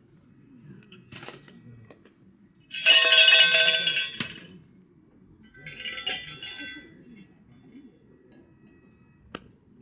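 A shrine's suzu bell jangling as it is shaken, a cluster of many ringing metal tones in two bursts, the louder one about three seconds in. Near the end come two sharp claps in quick succession.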